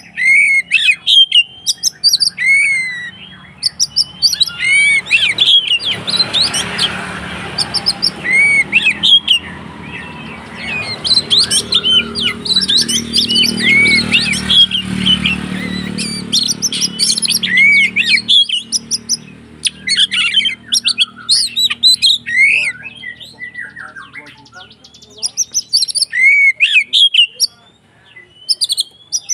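Oriental magpie-robin (kacer) singing in rapid, agitated bursts of hooked chirps, whistles and harsh notes, the nonstop 'konslet' fighting song of a male provoked into a territorial challenge. A low background rumble runs under the song through the middle.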